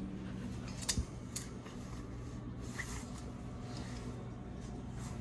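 Steady low hum of the room with a few sharp clicks about a second in and a short rustle near the middle, as of items being handled while browsing a shop rack.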